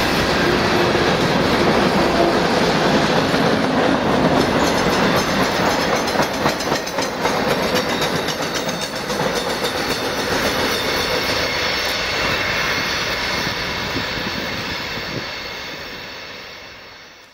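Freight train cars rolling past close by: a steady rumble of steel wheels on rail with clickety-clack over the joints, dying away near the end.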